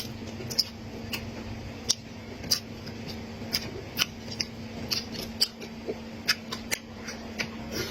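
Close-miked eating sounds: chewing with irregular sharp clicks and smacks of the mouth, one or two a second.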